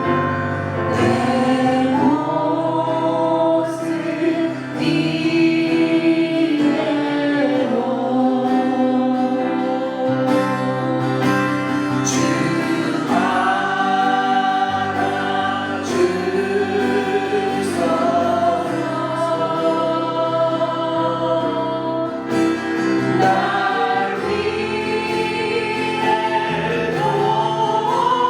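Church choir or congregation singing a Korean hymn in worship, with instrumental accompaniment.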